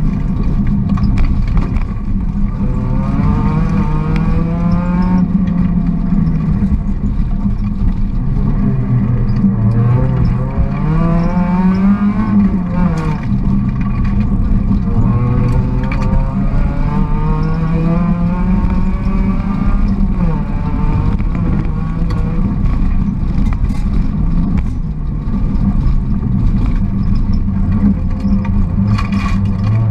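Volkswagen Golf GTI rally car's engine heard from inside the cabin at full stage pace, the revs climbing and dropping back several times as it accelerates and slows.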